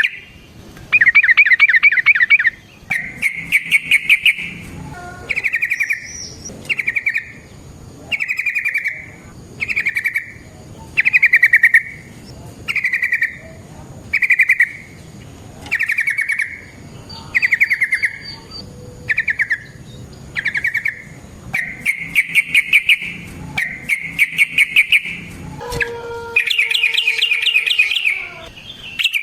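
Yellow-vented bulbul (trucukan) calling in a string of short, rapid chattering phrases, one about every one and a half seconds, with longer rolling phrases near the end.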